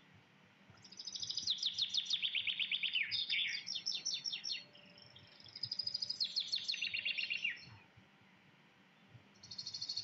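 A small bird chirping in fast, rapidly repeated high notes: two long runs of chirps, the second starting about halfway through after a short pause.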